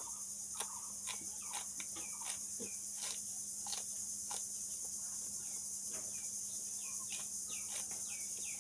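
Raw okra being bitten and chewed: a string of short, crisp crunches at an uneven pace. Under it runs a steady high chirring of insects.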